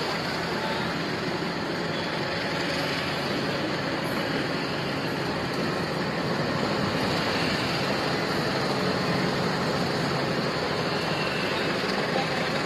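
A passenger train running along the track, giving a steady, continuous rumble.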